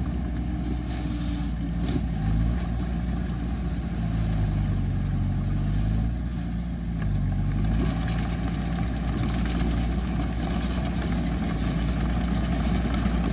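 Diesel engine of heavy earthmoving machinery running steadily, its pitch rising and falling a little as the throttle changes.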